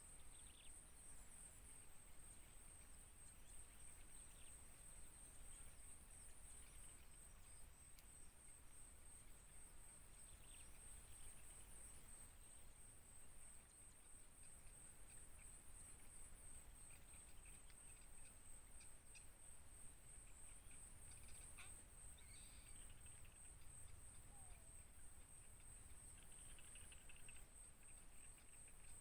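Faint, steady, high-pitched insect trill, evenly pulsed, with a few faint bird chirps here and there.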